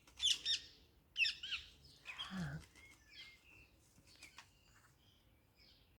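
Garden songbirds singing in short chirping phrases and trills, strongest in the first two seconds and thinning out after. A brief low falling sound comes about two seconds in.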